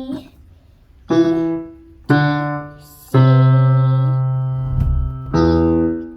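Piano played one note at a time, beginner-style: four single notes struck about a second apart, the third held and fading for about two seconds.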